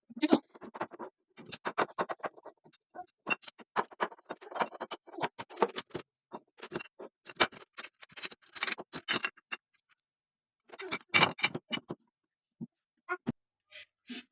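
Household objects being handled at close range: irregular clicks, taps and clinks with short rustles between them, and a brief pause about ten seconds in.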